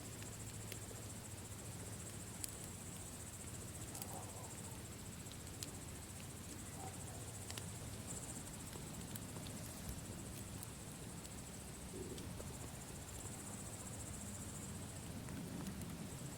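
Campfire crackling, with a few sharp pops spread through, over a low rumble of the fire and a steady high chirring of crickets.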